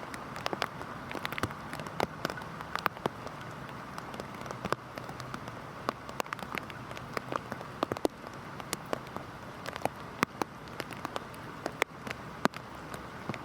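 Heavy rain falling: a steady hiss with many sharp, separate drops striking a surface at irregular moments.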